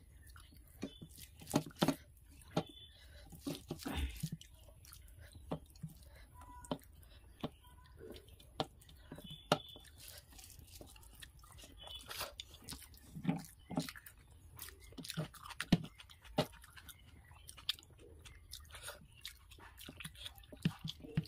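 Close-up mouth sounds of a person chewing rice and fried fish, with irregular wet clicks, and fingers mixing rice on a steel plate.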